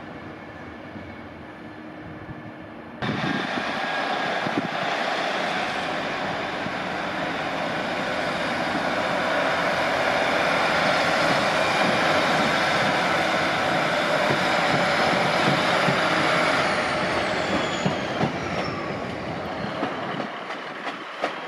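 A train passing through the station, with a dense rush of wheel and rail noise. It starts suddenly about three seconds in, grows louder through the middle, then fades near the end.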